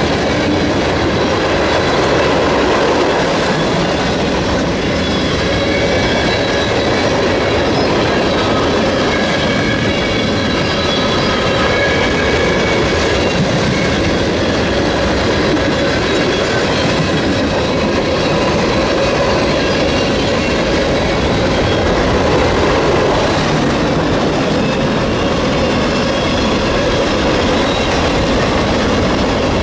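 Freight train cars rolling past, the wheels clattering steadily over the rail with faint, intermittent high squeals from the wheels.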